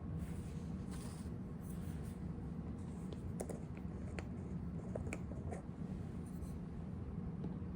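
Fountain pen writing on paper: faint nib scratches and a few small ticks, clustered around the middle, over a steady low background hum.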